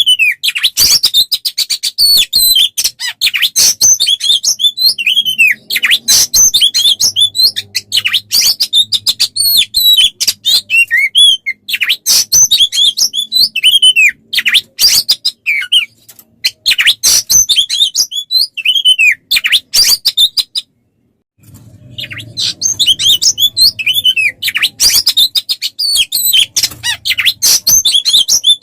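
A songbird singing a dense, rapid run of chirps, trills and sweeping whistled notes, as used in a masteran recording for training caged magpie-robins. The song breaks off into silence for under a second about two-thirds of the way through, then carries on.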